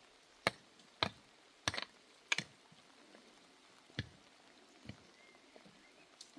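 A series of sharp, short knocks at irregular spacing, about six in four seconds, some of them doubled. The first few are the loudest; two weaker ones follow.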